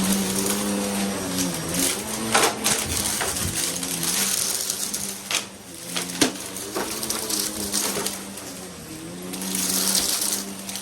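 Upright vacuum cleaner running and being pushed back and forth fast: a steady motor hum with a rushing hiss of air that swells and fades with the strokes, and a few knocks.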